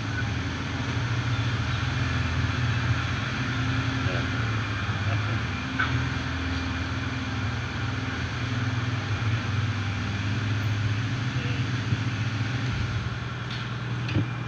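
A motor running steadily, a low even hum under a continuous hiss, shifting slightly near the end.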